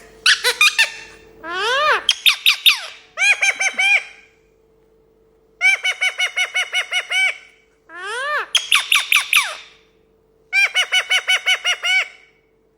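Parrot calling in loud bouts of rapidly repeated squawking notes, about six bouts with short pauses between them, two of them opening with a rising squeal.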